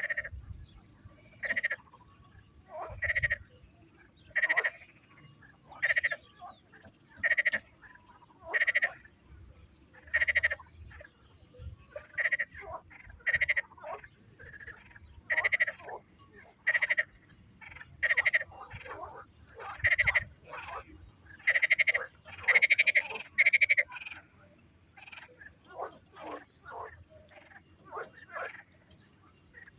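A frog calling: a short croak repeated at an even pace, about once every one and a half seconds, crowding together for a few seconds past the middle, then fainter and more scattered toward the end.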